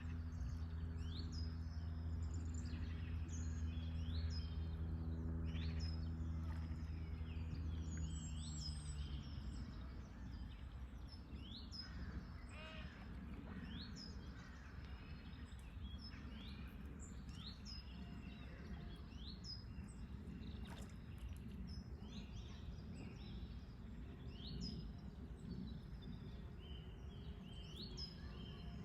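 Small birds chirping over and over, with short high calls. A steady low hum runs for about the first nine seconds and then stops, leaving a low outdoor rumble under the birdsong.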